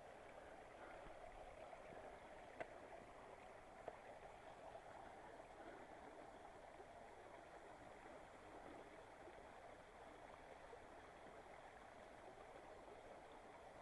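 Faint, steady rush of a flowing mountain stream, with two small clicks a few seconds in.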